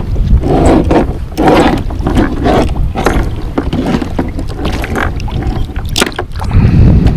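Strong wind buffeting the microphone in a steady low rumble, with choppy waves slapping irregularly against a kayak hull.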